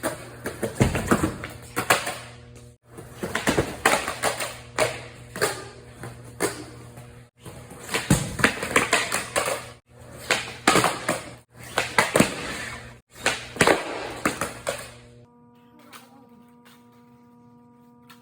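Skateboard riding a mini ramp: wheels rolling, with many sharp clacks and scrapes of the board and trucks, in several short runs that each stop abruptly. Near the end it drops to a quieter steady hum.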